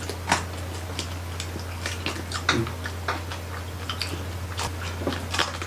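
Close-miked chewing and crunching of crispy roasted pig (lechon) skin and meat: irregular crackly clicks and wet mouth sounds, over a steady low hum.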